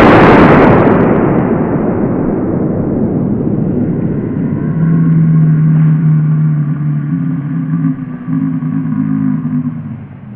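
Aftermath of a one-pound Tannerite exploding target detonating: a long, loud rumbling roar that slowly fades, with a low steady hum joining about halfway through. It cuts off abruptly at the very end.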